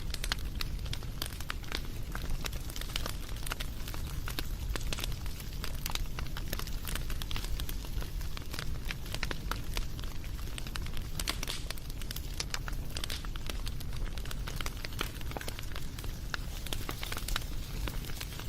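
Wood fire crackling and popping: a steady run of irregular sharp snaps over a low, even rumble of the flames.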